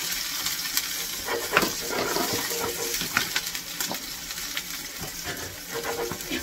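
Chopped peppers, then sliced mushrooms, sizzling on a hot coal shovel held in a steam locomotive's firebox doorway, over a steady hiss, with a few sharp clicks and scrapes as the food is tipped on and moved about.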